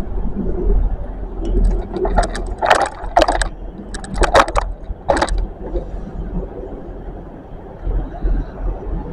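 Train rumbling at a railway station platform, with a cluster of short, sharp bursts of noise between about one and a half and five and a half seconds in.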